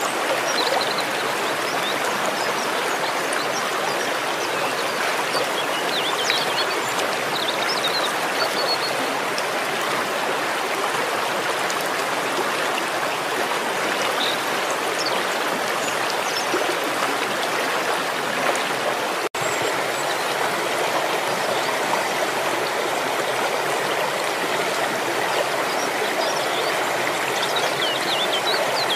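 Waterfall: a steady, even rush of falling water, broken by a momentary drop-out about two-thirds of the way through.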